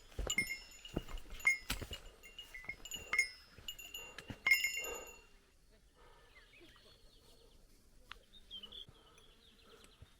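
A small metal bell, like a hiker's bear bell, jingling in quick irregular strikes with the knocks of footsteps, stopping about halfway through. A few faint high bird chirps follow.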